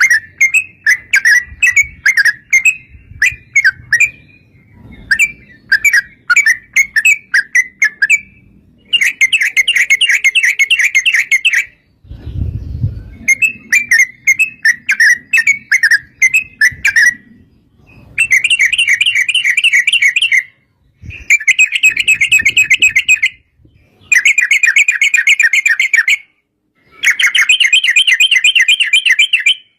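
Yellow-vented bulbul (trucukan) singing a long, fast chattering song. Quick repeated notes come in bouts of two to four seconds, broken by short pauses.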